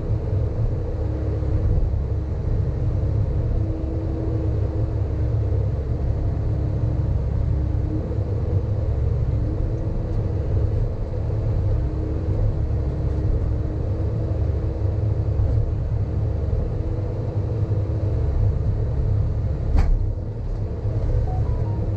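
Sany hydraulic excavator's diesel engine running steadily with a low rumble and a steady tone above it, as the machine works levelling fill soil; a single sharp knock near the end.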